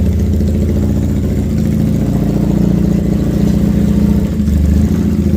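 Custom bobber motorcycle engine running at idle, a steady, rapid low exhaust pulse, with the note shifting slightly about two seconds in and again near the end.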